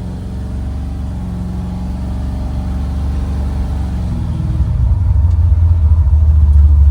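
Chevrolet C-10 pickup's engine running as the truck pulls away, growing louder from about four and a half seconds in as it accelerates.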